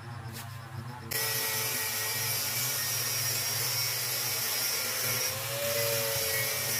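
Background music that cuts off about a second in, followed by a power tool running steadily with a whirring tone that shifts slightly in pitch near the end.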